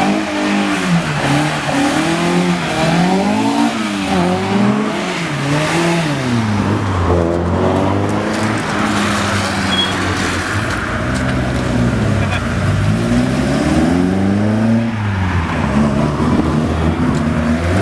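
Classic cars accelerating one after another out of a corner. Their engines rev up and drop back again and again with gear changes, often two at once.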